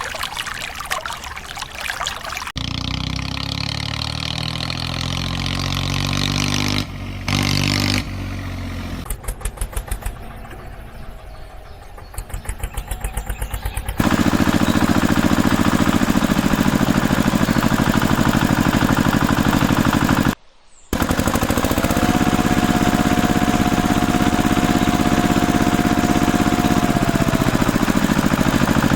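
Engine sounds in edited segments: an engine revving up and down, then chugging rhythmically, then running loud and steady. Partway through, the sound cuts out for a moment, and later a steady tone is held for about five seconds.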